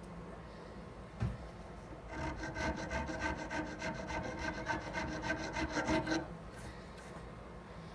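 Hand file rasping across a knife's micarta handle: a knock about a second in, then a burst of quick short strokes, several a second and ringing slightly, for about four seconds before it settles back to slower scraping.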